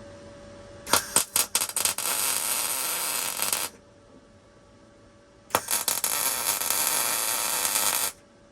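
Wire-feed (MIG) welder running .025 wire laying two short welds, each a few seconds long: each starts with a sputtering stutter as the arc strikes, then settles into a steady crackle until the trigger is released.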